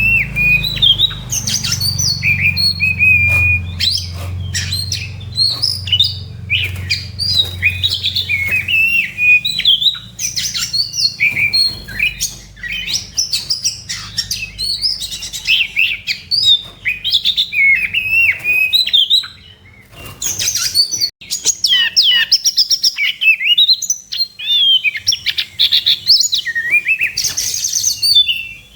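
Oriental magpie-robin (kacer) singing a fast, varied run of chirps, whistles and trills in fighting-mood song, with a brief pause about twenty seconds in.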